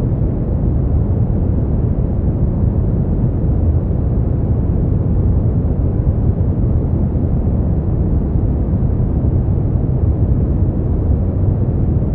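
Steady brown noise: a deep, even hiss with most of its weight in the bass, no tones or changes.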